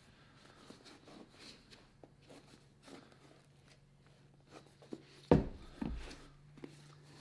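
Small scratching, rustling and tapping sounds of hands handling a leather boot and tools at a workbench, with two loud knocks about half a second apart a little past five seconds in, over a faint steady low hum.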